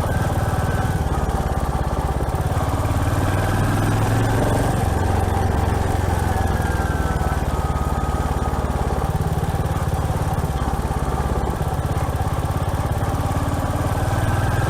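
Royal Enfield Hunter 350's 349 cc single-cylinder engine running steadily on the move, with an even rumble and a small dip in pitch about halfway through.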